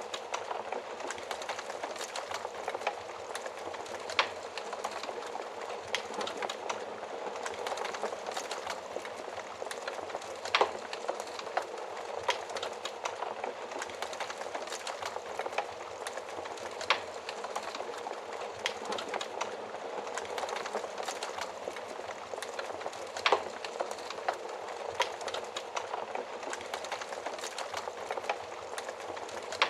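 Wood fire crackling: a steady hiss of burning with frequent small pops and a few louder, sharper snaps.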